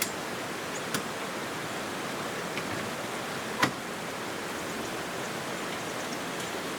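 Creek water rushing steadily, with a few small sharp clicks, the loudest about three and a half seconds in.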